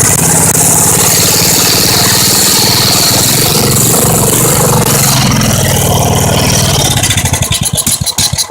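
1971 Tecumseh small engine running steadily at speed. About seven seconds in it starts to slow down, its separate firing pulses becoming audible and spreading apart as it dies away.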